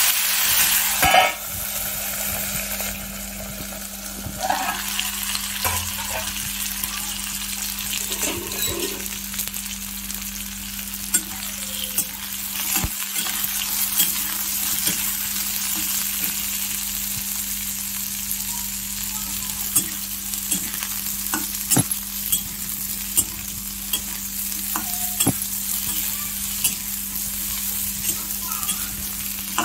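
Bitter gourd pieces frying in hot oil in a kadai: a loud sizzle for the first second or so as they hit the oil, then a steady sizzle. A metal spatula stirs and scrapes against the pan, with scattered clicks.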